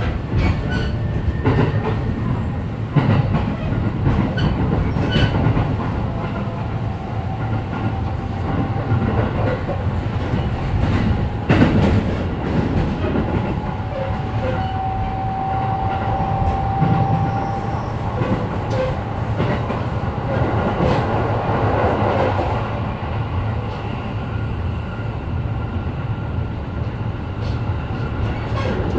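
Running noise heard inside a JR East E531 series electric commuter train at speed: a steady rumble of wheels on rail with frequent rail-joint clicks. A steady tone rises out of the noise twice in the middle, and one sharp, louder knock comes just before halfway.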